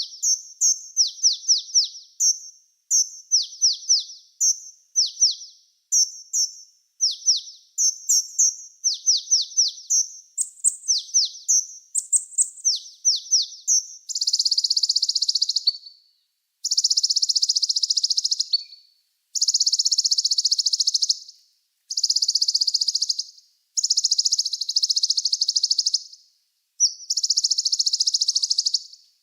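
Recorded small songbird calls. First come quick groups of three to five falling notes, about one group a second. From about halfway they give way to long, high buzzing trills of about two seconds each, with short gaps between.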